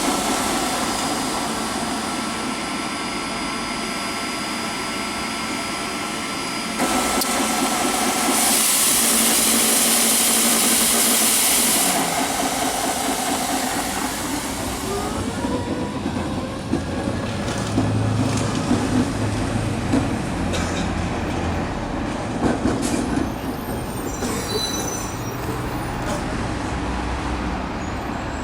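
Battery-powered ride-on floor scrubber running: a steady machine noise. A loud hiss starts and stops abruptly between about a quarter and halfway through, and scattered knocks follow in the second half.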